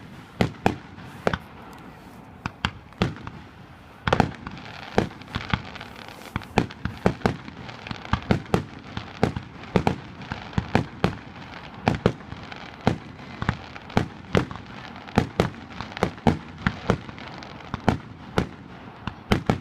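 Fireworks display: a steady run of sharp bangs, often several a second and some louder than others, over a continuous crackling hiss.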